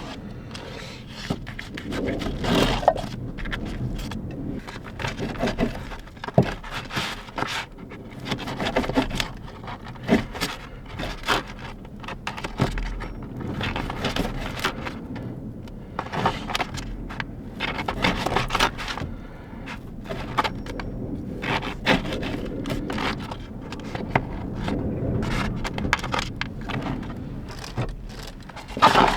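Objects being handled and moved about: irregular scrapes, clicks and knocks, a few sharper than the rest, over a low steady hum.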